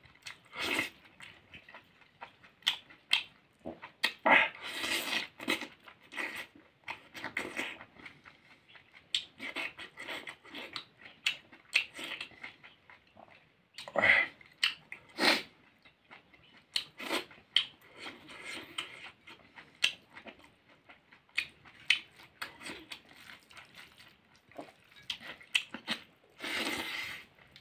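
Close-miked mukbang eating sounds: a man chewing mouthfuls of rice and beef innards, with lip smacks and irregular short wet clicks.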